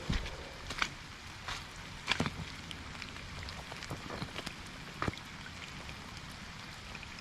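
Rain falling: a steady faint hiss with scattered sharp drop ticks at irregular intervals.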